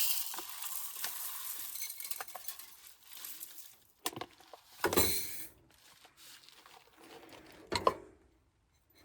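Dry rice pouring into a small beaker, a hissing rattle of grains for about three seconds, then a few knocks and clinks of the containers being handled.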